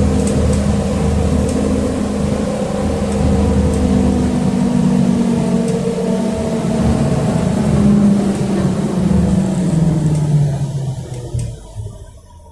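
City bus running, heard from inside the passenger cabin: steady engine and road noise while under way, the engine note falling and the sound dropping away sharply near the end as the bus slows.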